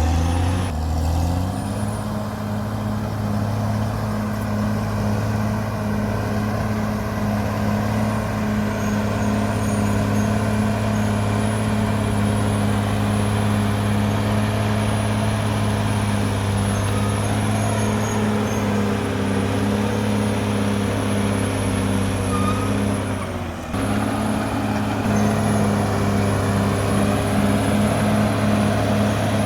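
Caterpillar D6R XL bulldozer's diesel engine running steadily under load, with a thin high whine above it. The engine note rises about a second and a half in, and near the end it dips briefly before picking back up.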